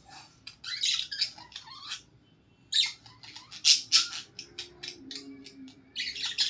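Budgies chattering and squawking in short scratchy bursts, with a brief pause about two seconds in and a few short clicks near the end.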